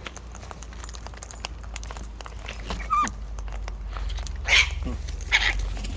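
Wild cockatoos and parrots clambering and feeding close to the microphone: many small clicks and scratches of beaks and claws, a short squeaky call about halfway, and two harsh calls near the end.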